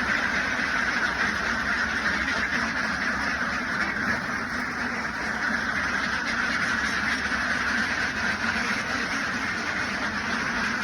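A huge flock of farmed ducks quacking all at once in a dense, unbroken din.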